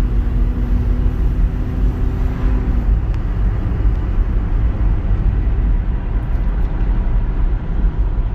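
Car driving, heard from inside the cabin: a steady low road-and-engine rumble, with a steady hum that drops away about three seconds in.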